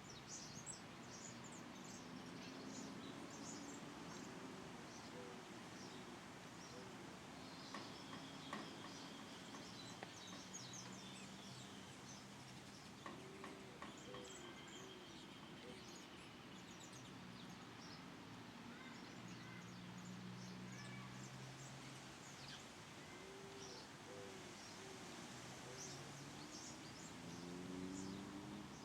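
Faint chorus of small birds, with many short high chirps and a few held whistled notes throughout. A low steady drone runs underneath.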